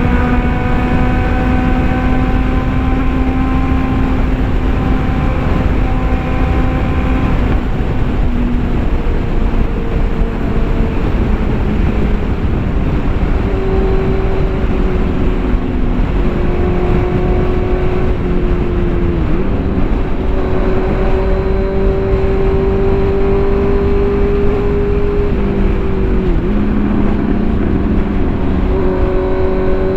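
Motorcycle engine running at a steady cruising speed with heavy wind rush, its note sliding slowly lower, then dipping briefly twice in the second half.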